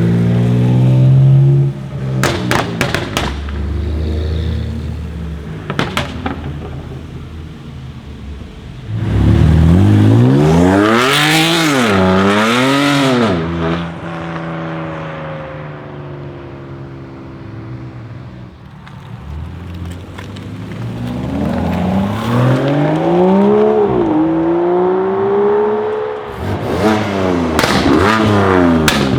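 BMW M2 Competition's twin-turbo straight-six, fitted with upgraded TTE740+ turbochargers and an Akrapovic exhaust, revving hard up and down several times, with sharp exhaust crackles in the first few seconds.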